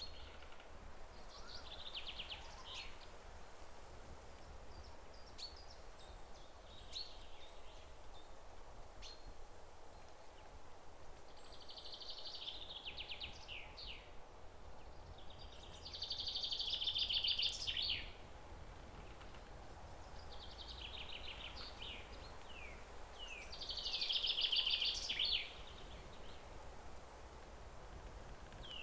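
A songbird singing the same short phrase over and over, a rapid trill ending in a few falling notes, repeated every few seconds, with two louder phrases in the second half. A faint steady background noise runs underneath.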